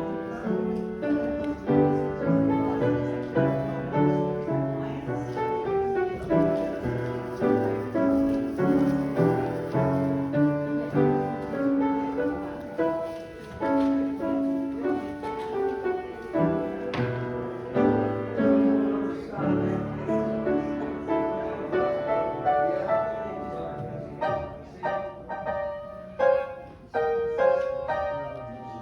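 Piano playing the church service's postlude, a tune in full chords.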